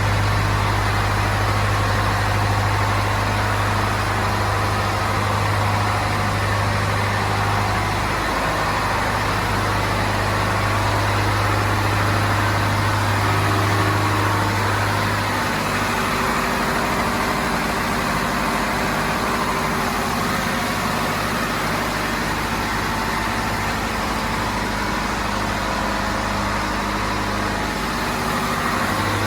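Scania DSI 11 six-cylinder marine diesel engine running steadily. Its low steady hum changes about halfway through, then holds again.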